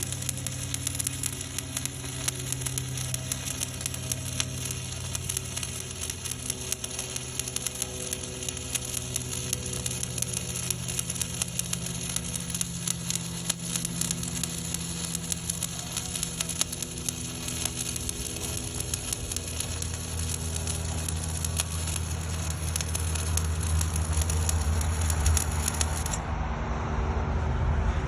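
Stick-welding arc from a 1/8-inch 7018 electrode at about 124 amps, crackling and sizzling steadily over a low steady hum. The highest part of the crackle drops out abruptly about two seconds before the end.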